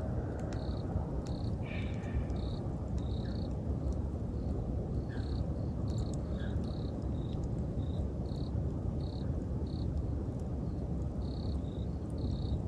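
Campfire burning with a steady low noise and a few scattered crackles, while autumn insects chirp in short, evenly repeated high pulses.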